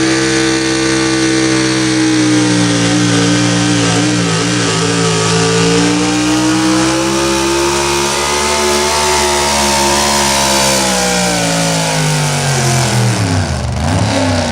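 Super stock 4x4 pulling truck's engine running hard at high revs under load, the pitch sagging and then climbing again, before falling away sharply near the end as the engine comes off the throttle.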